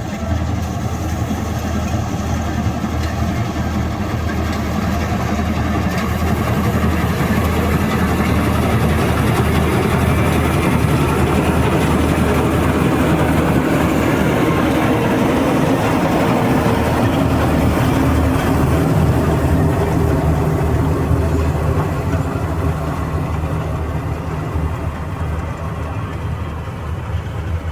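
Tractor-driven harvester's heavy diesel engine running steadily under a mechanical clatter. It grows a little louder in the middle and eases slightly near the end.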